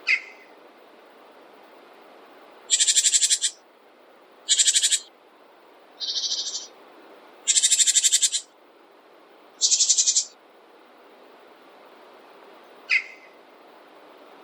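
A bird calling in a series of five high, rapid trills, each about half a second to a second long, with a short single chirp at the start and another near the end. A steady background hiss runs underneath.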